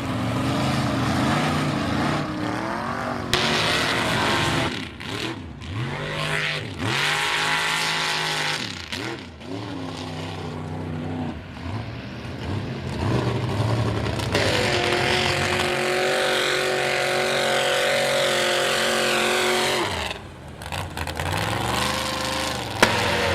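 Mega mud truck engines with open headers revving hard, the pitch swinging up and down as the throttle is blipped and dropped. About two-thirds of the way in one engine holds at high revs for several seconds, then cuts off suddenly before revving again.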